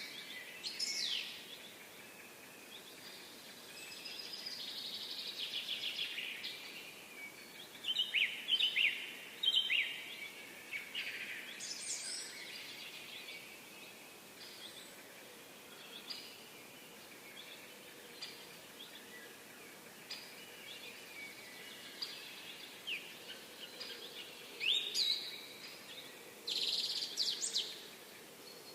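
Birds chirping and singing outdoors: short chirps and quick trills come and go over a faint steady background hiss, with a few louder bursts of calls.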